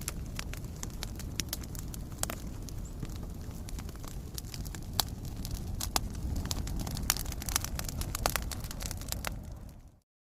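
Wood logs burning in a fireplace: a steady low rumble of flames with frequent sharp crackles and pops from the burning wood. Near the end the sound fades quickly to silence.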